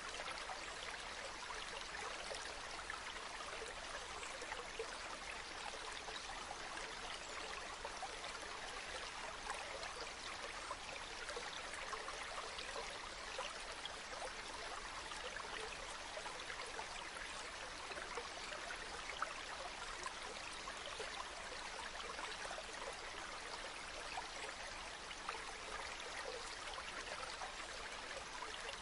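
Stream water running and babbling steadily.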